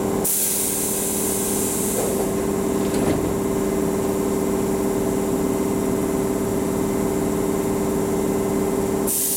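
Tobu 8000-series electric commuter train standing at a platform with a steady electrical hum. Its pneumatic doors close with a hiss of air about a second in and a knock around three seconds. Another loud hiss of air starts near the end.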